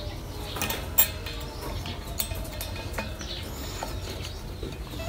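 Light clicks and taps of a plastic speedometer gearbox being handled and pressed onto a motorcycle front wheel hub, with one sharper click about a second in.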